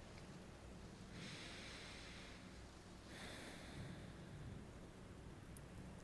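A woman breathing softly close to the microphone: two long, quiet breaths, the first starting about a second in.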